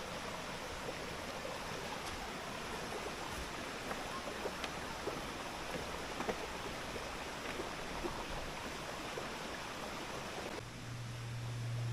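River water flowing steadily, with scattered small ticks over it. Near the end the water sound cuts away and a low steady hum takes over.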